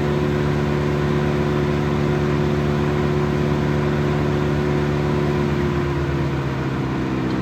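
Morbark wood chipper's engine running steadily at high throttle, then dropping in pitch about six seconds in as the chipper throttles down.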